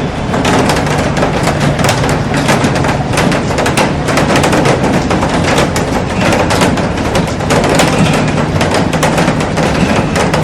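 Heavy rain drumming on a glass roof and pattering on garden plants: a dense, continuous rush of drop impacts.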